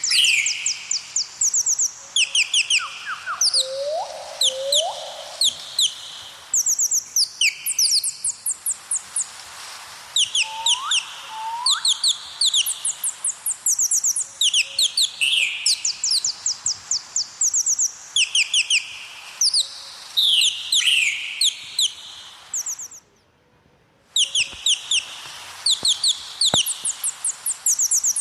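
Birdsong ambience: several small birds chirping in quick, repeated trills, with a few short rising whistles mixed in. It cuts out for about a second late on, then resumes.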